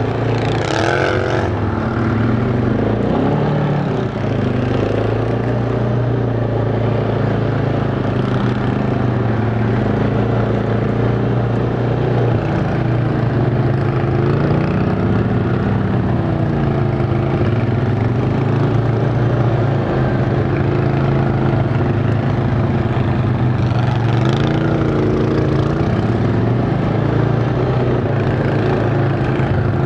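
ATV engine running while riding, its pitch rising and falling with the throttle. A brief hiss about a second in and again about 24 seconds in.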